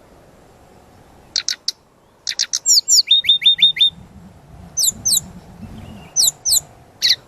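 A songbird singing in short, sharp, falling chirps: a few clusters, then a quick run of five falling whistles about three seconds in, followed by pairs of high chirps toward the end.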